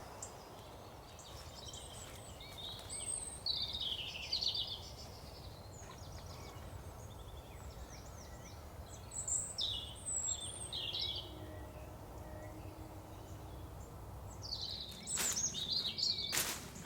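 Woodland songbirds singing in three short spells of quick high phrases over a steady low background hush, with a few sharp knocks near the end.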